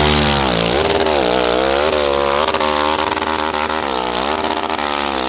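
Enduro dirt bike engine revving hard, its pitch repeatedly rising and falling as the throttle is worked, with two marked dips, about a second in and about four seconds in.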